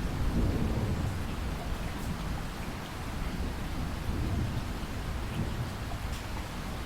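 Steady rainfall with thunder rumbling low under it, loudest in the first second and swelling again about four seconds in, with scattered drops ticking above the hiss.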